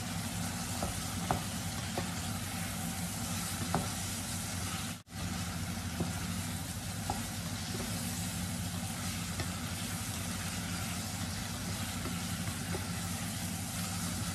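Beef chunks with chopped onion and garlic sizzling steadily in hot oil in a pot as they are stir-fried with a wooden spatula, with a few faint clicks and a low steady hum underneath. The sound drops out for a moment about five seconds in.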